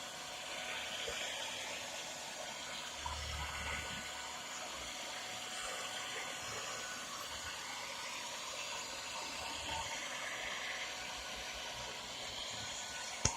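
Handheld hairdryer running steadily, a constant blowing hiss, used to heat a motorcycle headlamp so its lens seal softens enough to open. A sharp click comes near the end.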